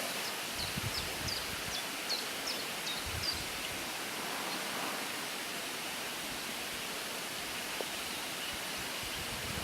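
Outdoor ambience: a steady rushing noise, with a bird giving a quick run of short, high chirps in the first few seconds.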